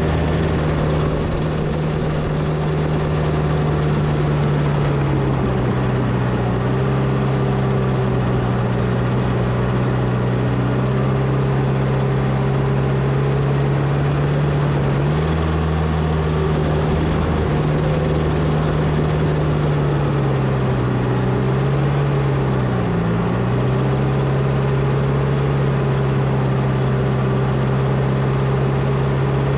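Volvo A25G articulated haul truck's diesel engine running, its pitch stepping down and back up several times (about 7 s in, around 15 and 17 s, and a brief dip near 23 s) as engine speed changes.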